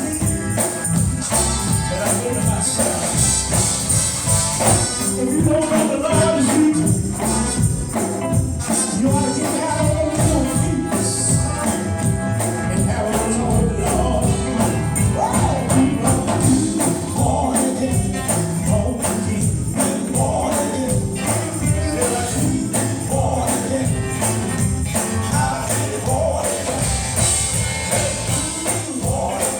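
Live gospel music: voices singing over a band, with a tambourine shaken and struck steadily on the beat.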